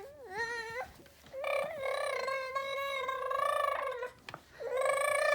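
An 11-month-old baby vocalizing in drawn-out, high-pitched squeals, three long held sounds with a slightly wavering pitch, the middle one lasting a couple of seconds.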